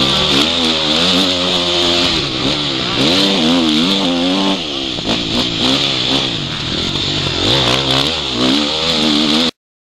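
Motocross bike engine revving up and down repeatedly as it is ridden, picked up by a camera built into the rider's goggles. The sound cuts off suddenly near the end.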